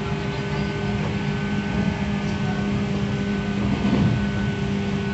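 Onboard running sound of a JR West 117 series electric train, heard inside the passenger cabin: steady wheel-and-rail rumble with a constant hum from the traction motors and gears.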